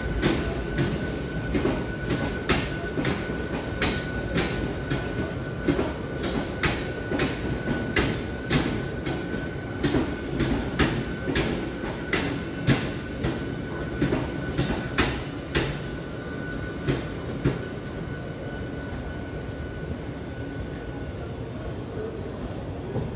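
Mumbai local electric train running with a low rumble, its wheels clattering over rail joints and points in frequent irregular knocks that thin out after about 16 seconds, over a steady high whine.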